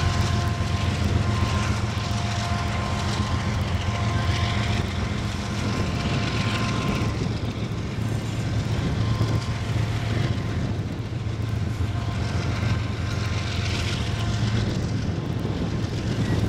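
BNSF diesel freight train passing: a steady, deep locomotive engine drone over the rumble of the train. Faint high whining tones come and go.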